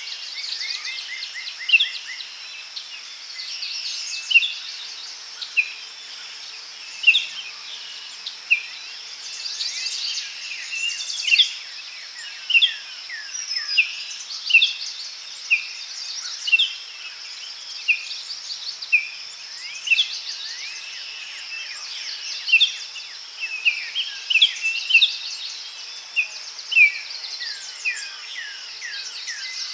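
Daytime forest ambience: many birds calling and singing, short chirps and down-slurred whistles coming every second or so, over a steady high insect drone.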